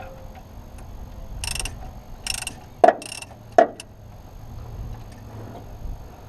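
Socket ratchet wrench clicking in three short bursts while a bolt is worked loose on an alternator mounting, with two sharp metallic knocks in the middle.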